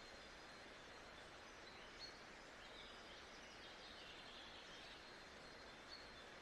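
Faint nature-sounds ambience: a steady even hiss with a few faint, high bird chirps scattered through it.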